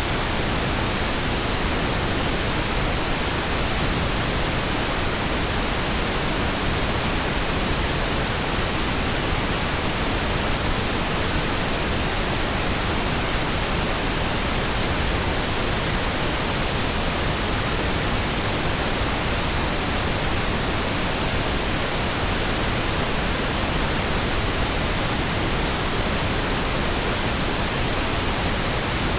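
Synthetic pink noise: a steady, even hiss that spreads across all pitches and does not change.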